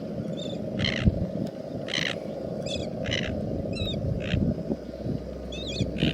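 Birds calling again and again, a sharp call about once a second with smaller chirps in between, over a steady low rumble.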